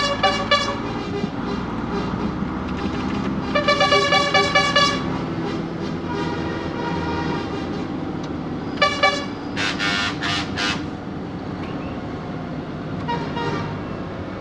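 Truck air horns tooting in bursts of short, rapid blasts: at the start, around four seconds in, and again for about two seconds around nine to eleven seconds in. A lorry's diesel engine runs steadily underneath.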